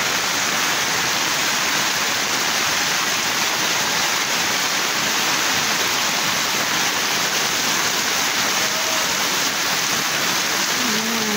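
Heavy monsoon rain falling steadily: a dense, even hiss of downpour with no letup.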